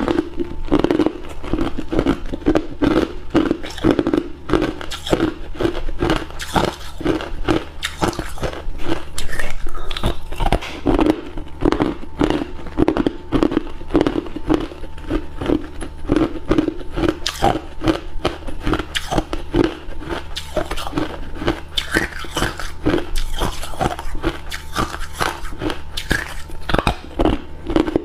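Hard cube ice being bitten and chewed close to the microphone: dense, irregular crunching and cracking without a break.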